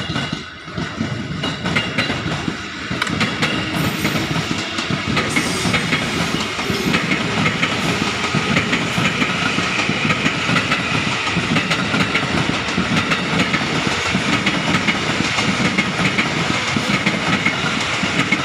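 Electric commuter train (EMU) passing close by, its wheels clacking steadily over the rail joints with a continuous rushing noise.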